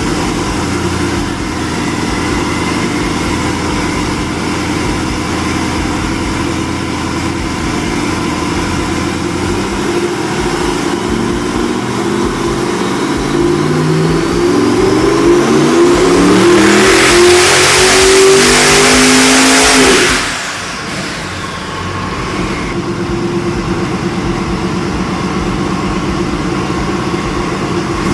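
Twin-turbocharged 427 cubic inch small-block Chevrolet V8 making a dyno pull. It runs steadily, then climbs in revs for about ten seconds under boost, grows loudest near the top, and is cut off sharply about twenty seconds in, dropping back to steady low-speed running.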